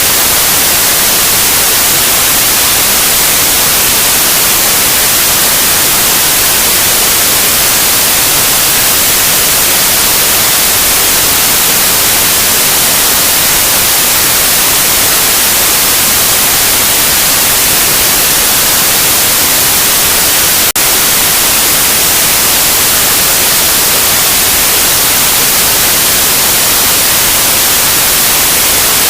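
Loud, steady white noise: an even hiss with no tones or rhythm, brightest in the treble, broken only by a split-second dip about two-thirds of the way through.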